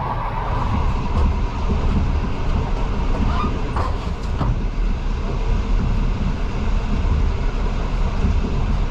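Regional passenger train in motion: a steady low rumble of wheels on the track, with a few sharp clicks near the middle.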